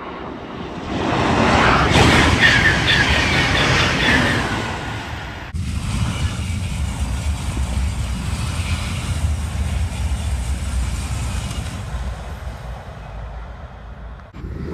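TGV high-speed trains passing at speed on the high-speed line, a rushing rumble of air and wheels on rail. The first swells about a second in and peaks over the next few seconds. After an abrupt cut a second train is heard farther off as a steadier, lower rumble that fades away near the end.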